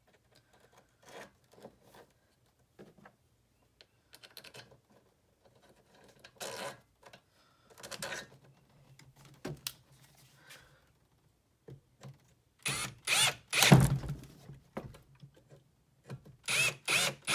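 Hand work on a leaf blower with the engine off: irregular scraping, clicking and rattling of parts and tools being handled. There are louder scraping bursts with a heavy knock about two thirds of the way through, and more near the end.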